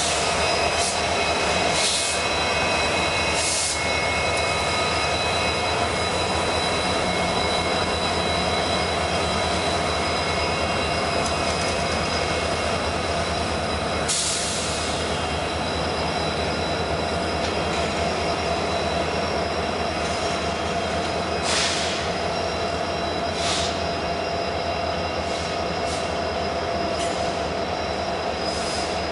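Union Pacific freight train rolling past: a locomotive, then refrigerated boxcars, with steady wheel-on-rail rumble and a high, steady wheel squeal. A few short, sharper bursts of high hiss cut in along the way.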